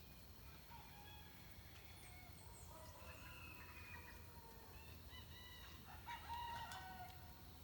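Roosters crowing faintly, several overlapping crows, the loudest near the end. Small birds chirp now and then over a low steady rumble.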